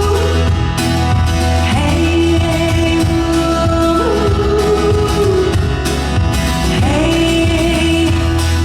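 Live band music with guitar accompaniment and long sliding sung or hummed notes between the lyrics, with a sung "hey" near the end.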